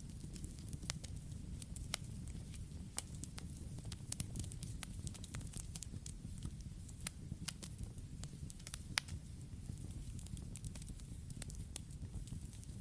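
Campfire crackling: a steady low rumble of the flames with many sharp, irregular pops and snaps from the burning wood.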